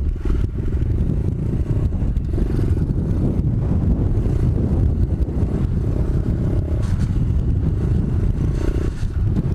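125cc pit bike's single-cylinder engine running as it is ridden, mixed with a heavy low rumble of wind on the microphone.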